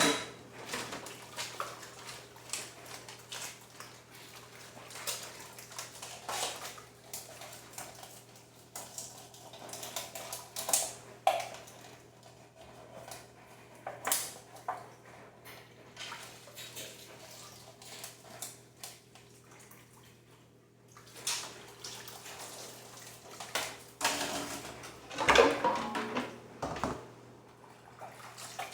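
Washing up at a kitchen sink: water running and splashing, with dishes and cutlery clattering at irregular moments, the loudest knocks at the very start and about 25 seconds in.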